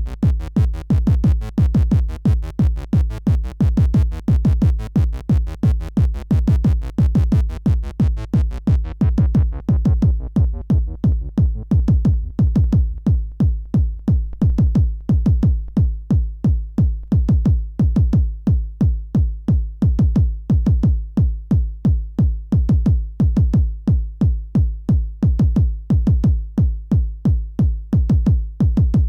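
Electronic music from a synthesizer and drum machine: a fast, even, repeating pulse with heavy bass. Its bright top end is filtered away about nine seconds in, leaving a darker pulsing bass pattern.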